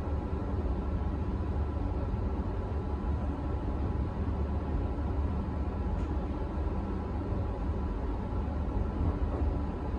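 Cabin noise of a moving KTM Skypark Link electric train: a steady low rumble from the wheels and running gear, with a faint even hum over it.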